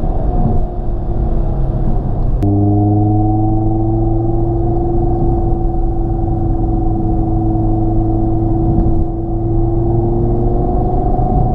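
Audi TT RS 2.5 TFSI turbocharged five-cylinder engine and sport exhaust with its valves open, heard from inside the cabin. The engine runs under load at a nearly steady pitch, then rises again near the end. A sharp click comes about two and a half seconds in.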